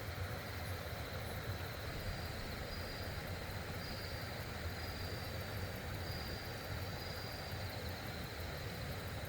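Steady rush of a loud stream or river running over rocks, with a faint high-pitched tone coming and going.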